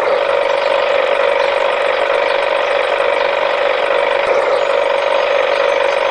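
Small toy vehicle's motor running steadily, a constant hum with a rattly edge.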